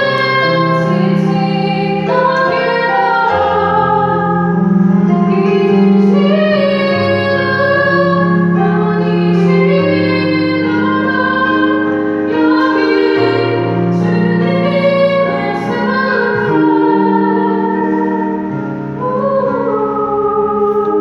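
A woman singing a sacred song solo over instrumental accompaniment, holding long notes with vibrato over sustained low chords.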